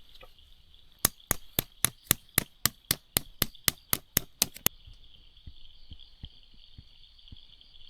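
A rapid series of about fifteen sharp, evenly spaced knocks, about four a second, stopping near the middle, followed by a few faint knocks. A steady high-pitched drone runs underneath throughout.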